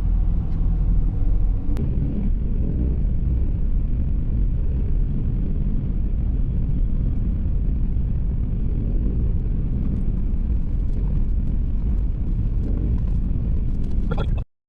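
A car on the road: a steady low rumble of engine and road noise, which cuts off suddenly near the end.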